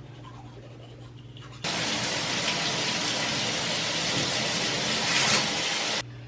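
Water running hard from a tap. It is turned on about two seconds in and shut off abruptly near the end.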